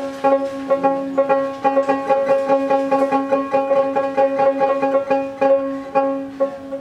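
A dotara, the fretless plucked folk lute of Bengal, being played: a quick run of picked notes over one steadily ringing drone note.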